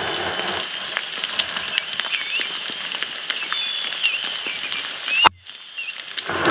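Steady rain pattering, with many small drop ticks, and high chirping calls from animals in the background. A sharp click about five seconds in, after which the sound briefly drops away.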